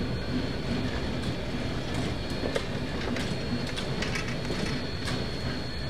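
Narrow-gauge train hauled by a K-28 steam locomotive, running along the track: a steady rumble with scattered sharp clicks of the wheels over the rails and a thin, steady, high-pitched squeal.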